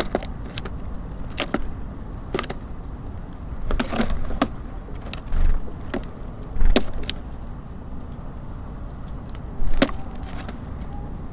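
Small birds at a bird feeder, tapping and pecking in irregular sharp clicks, with a few louder thumps as they land or hop about. A steady low rumble of city traffic runs underneath.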